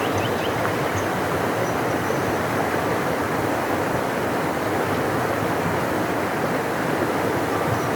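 Large river rushing past in a steady, even roar of water, with a few faint bird chirps in the first half second.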